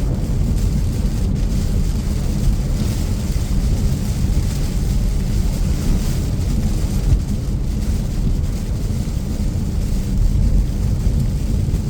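Steady low rumble of road and engine noise heard inside a car driving on rain-soaked roads, with a fainter hiss of tyres and rain over it.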